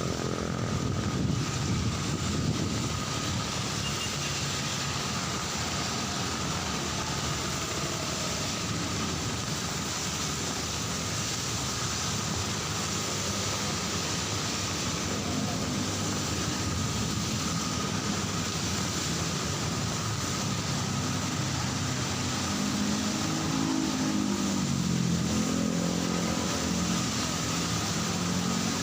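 Heavy rain falling steadily, with cars and motorcycles passing on the road. An engine hum rises and falls in the second half.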